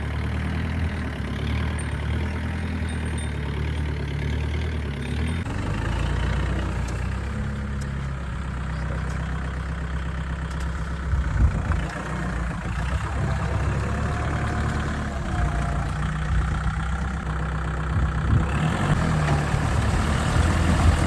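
Kubota tractor's diesel engine running steadily, its sound changing abruptly about five seconds in and again near the end.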